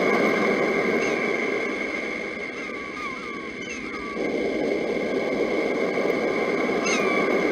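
Steady rushing noise of sea surf, with short repeated bird chirps over it, a quick run of them about three seconds in, and a steady high ringing tone underneath. The surf noise sinks a little in the middle and comes back abruptly about four seconds in.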